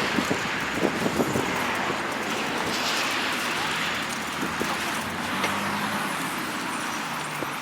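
Road traffic: a motor vehicle passing, heard as a steady rushing hiss of tyres and air with a low engine hum.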